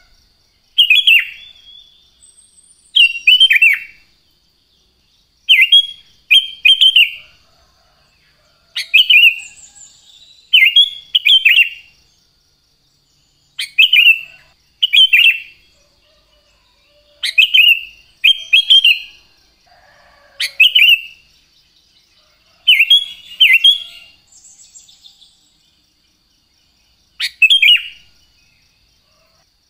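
Sooty-headed bulbul (kutilang) calling: loud, short whistled phrases of one to three quick notes, repeated every second or two with a brief lull near the end. A faint steady high tone runs behind.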